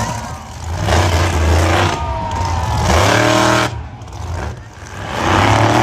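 Monster truck engine revving in three loud throttle surges, each about a second long, dropping back between them.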